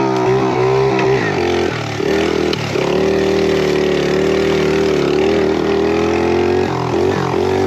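Small pit bike engine pulling steadily under throttle as the bike is ridden. Its pitch dips briefly about two seconds in and again near the end before picking back up.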